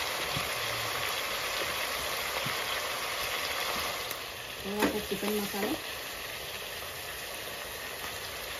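Chicken, onions and spices sizzling in hot mustard oil in a steel kadai, a steady frying hiss that grows a little fainter after about four seconds.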